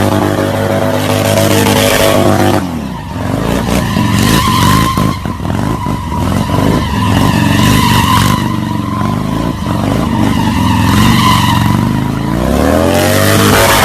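Racing motorcycle engine held at high revs, then the revs drop sharply about three seconds in as it slows, with crackles and blips through the slow stretch. Near the end the engine pulls and the pitch climbs again.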